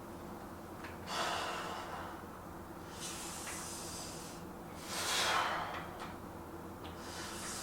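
A man breathing hard through exertion, with a hissing breath about every two seconds, the loudest about five seconds in, over a steady low room hum.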